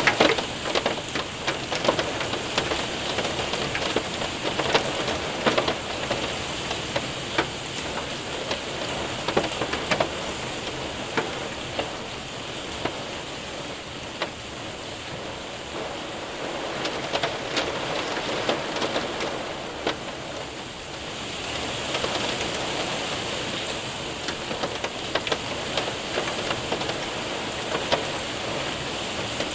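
Hail and heavy rain hitting a window and roof: a steady hiss of rain with many sharp ticks of hailstones striking, swelling a little in intensity twice in the second half.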